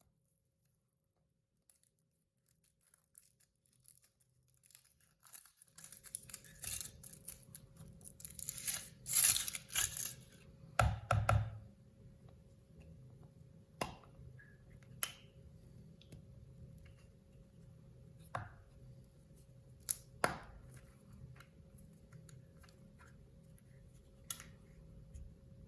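Foil wrapper of a Kinder Surprise chocolate egg crinkling and tearing as it is peeled off, loudest a few seconds in, followed by a handful of single sharp clicks and taps as the egg is handled.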